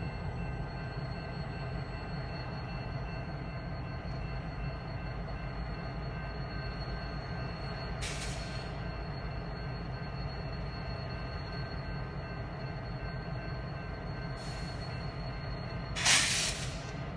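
Freight train behind a BNSF diesel locomotive moving slowly: a steady low rumble with faint steady high tones, a short hiss about halfway through and a louder one near the end.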